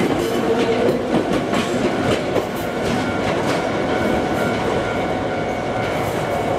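Iyotetsu suburban electric trains running through the station, a steady rumble of wheels on rail with clicks over the rail joints, busier in the first couple of seconds.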